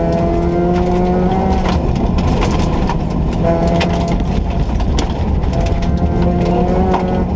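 Interior of a 1.4-litre Ford Ka rally car at speed: the engine pulls hard in three stretches, easing off between them, over a constant low rumble of road noise. Scattered sharp clicks and knocks come through the body.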